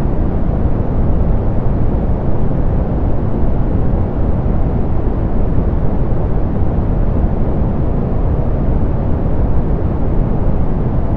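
Steady soft pink noise: an even hiss weighted toward the low end, darker and muffled in the highs, with no changes.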